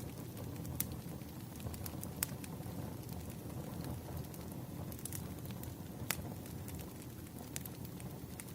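Campfire burning: a steady low rush of flames with scattered sharp crackles and pops of burning wood.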